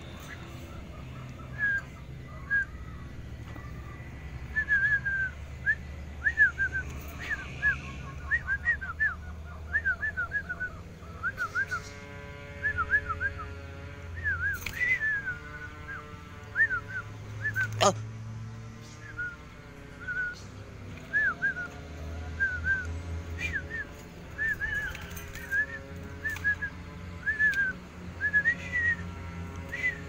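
Caged songbird giving a string of short, rapid chirping whistles, with one sharp tap about halfway through.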